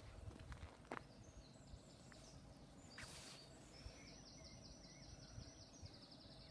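Near silence with faint birdsong: scattered high chirps and a rapid trill of evenly repeated notes in the second half, with a brief hiss about three seconds in.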